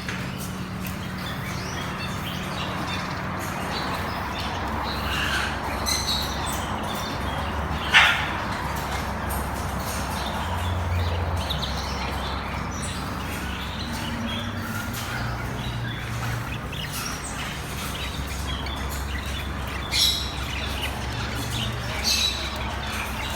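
Many caged birds chirping and squawking over a steady low hum, with one loud sharp call about eight seconds in and two more loud calls near the end.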